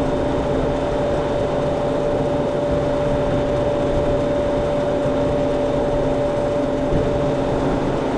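Steady mechanical hum of a commercial reach-in refrigerator's refrigeration unit running with a constant pitched drone. Its condenser coil is covered to force the head pressure up.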